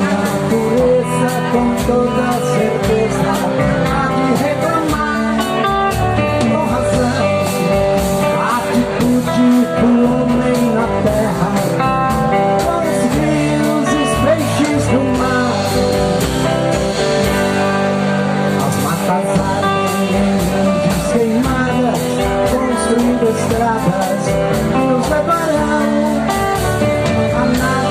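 Live rock band playing an instrumental passage: electric guitar lead over acoustic guitar, bass guitar and a drum kit.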